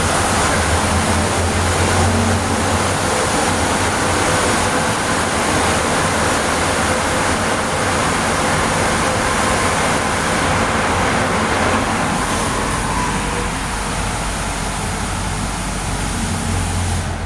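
Car wash drying blowers running, a loud steady rush of air with a faint high whine. The rush eases slightly about 13 seconds in.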